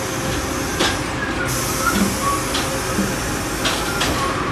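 Steady hiss and hum inside a passenger train standing at a station platform, with a few short clicks.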